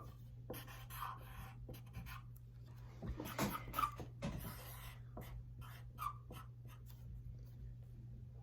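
Pen or pencil scratching on paper in short, irregular drawing strokes, over a steady low hum.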